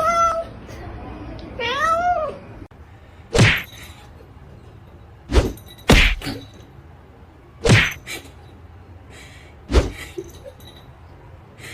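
A domestic cat meows twice, two short calls that rise and fall. These are followed by five separate thumps spaced a second or two apart.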